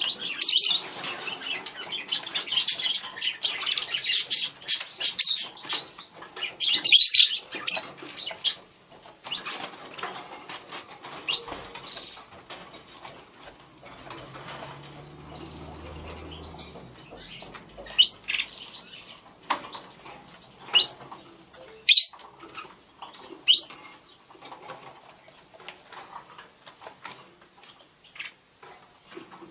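Budgerigars chattering and calling: a dense warbling chatter for the first several seconds, then sparser sharp rising chirps. Scratchy clicks and rustles come between the calls.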